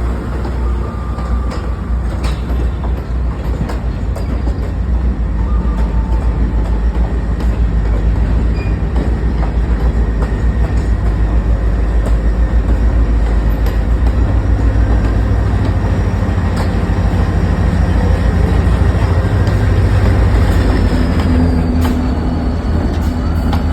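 Passenger train running on the rails with a steady low rumble that swells a little partway through. A faint thin squeal runs through the middle, and a higher squeal starts near the end.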